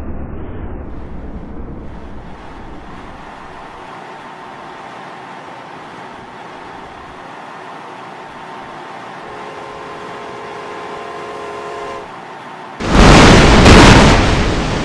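Amtrak passenger train approaching with its horn chord sounding steadily in the distance. About 13 s in, a sudden loud rush of noise and wind as the train passes close by, then fading.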